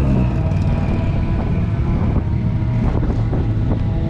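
A car engine running steadily, a deep drone that holds its pitch, with wind noise on the microphone.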